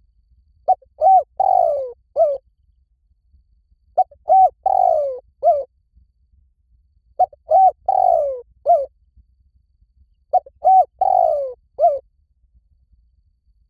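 Spotted dove cooing: four identical phrases about three seconds apart, each a few short arched coos around a longer coo that falls in pitch.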